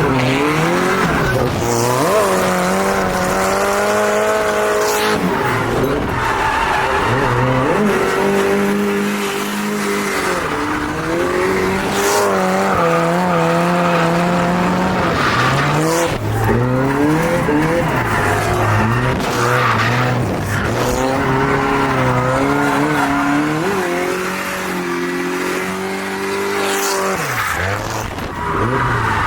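Turbocharged drift car engine revving up and falling back again and again as it drifts, with tires squealing and occasional sharp cracks.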